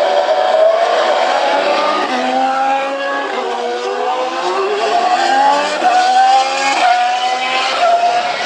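2019 Formula 1 cars' turbocharged V6 hybrid engines accelerating out onto the circuit, more than one car at once, their overlapping pitches climbing and dropping back with each quick upshift.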